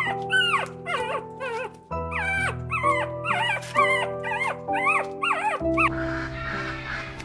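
Dog whimpering in a quick series of short, high calls that rise and fall in pitch, over background music; the calls stop about five and a half seconds in.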